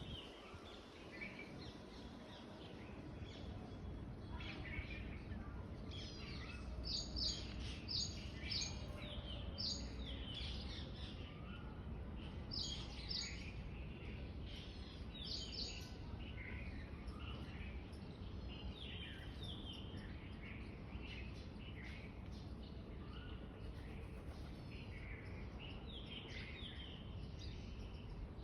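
Small birds chirping: many quick, high, sweeping chirps from several birds overlapping, thickest in the first half, over a low steady background rumble.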